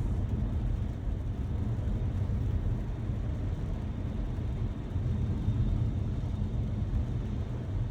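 Steady low rumble of a car driving: engine and tyre noise with no sudden events.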